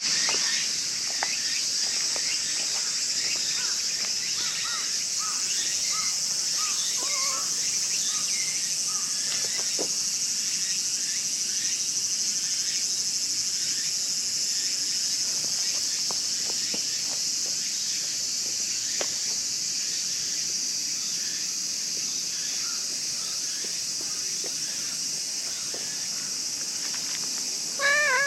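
Steady high-pitched drone of an insect chorus, with a series of short bird chirps in the first several seconds and a few faint taps. Right at the end a cat gives a short meow.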